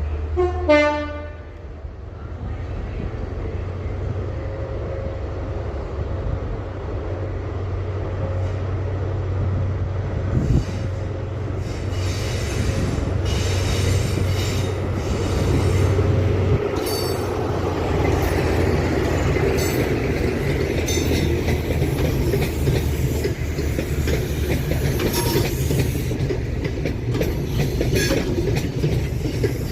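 A diesel train sounds a short horn blast about a second in, then its engines run with a steady low rumble. From about halfway through, wheels click over rail joints with some squeal as it moves through the station.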